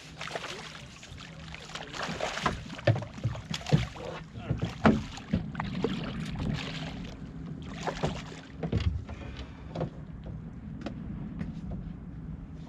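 Small fishing boat's motor humming steadily, with a run of sharp knocks and thumps on board through the middle of the stretch.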